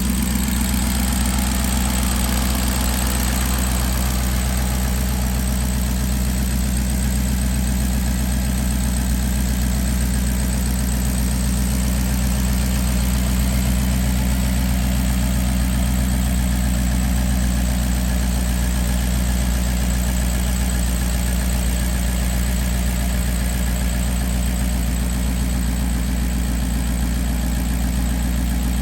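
Engine idling steadily, with no change in speed.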